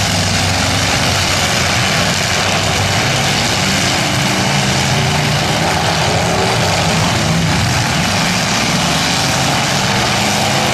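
Several demolition derby cars' engines running together in a steady, loud blend, their pitch shifting as the cars push against each other.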